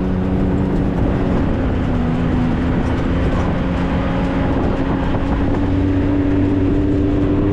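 4x4 vehicle's engine running at a steady driving speed, a constant drone holding an even pitch, with tyre and wind noise underneath.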